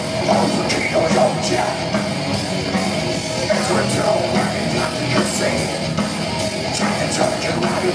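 Heavy metal band playing live: distorted electric guitars, bass and drums.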